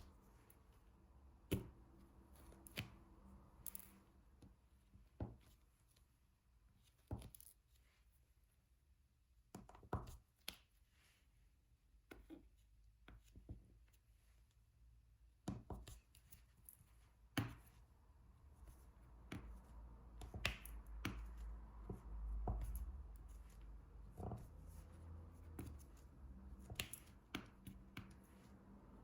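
Faint, irregular clicks and taps of a diamond-painting drill pen picking up small drills and pressing them onto the adhesive canvas, a few seconds apart.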